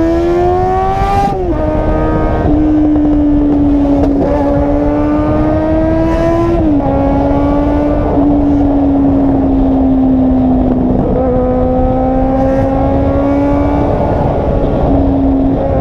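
A car's engine and exhaust running loud under load, the engine note creeping up in pitch and then dropping back several times, as at gear changes.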